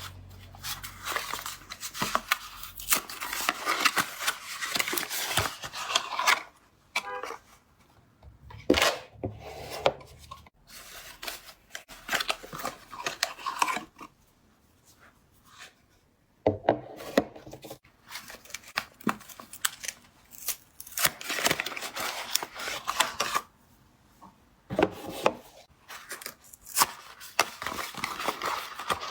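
Soap cubes being unpacked by hand: wrappers torn open and crinkled in irregular bursts, with a few short pauses.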